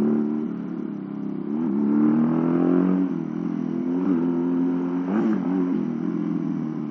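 Home-built two-cylinder motorcycle engine, made by joining a Honda Revo engine to an old Astrea Prima's, running while riding. Its pitch climbs under throttle about two seconds in and dips briefly a few times.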